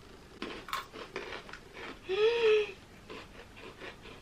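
Yan Yan biscuit sticks crunched and chewed close up, with a few crisp snaps in the first second or so. About two seconds in, one of the eaters gives a loud hummed "mmm" that rises then falls in pitch.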